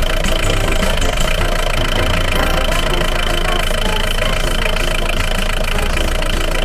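Truck engine running steadily at an even level, with a fast rattling texture.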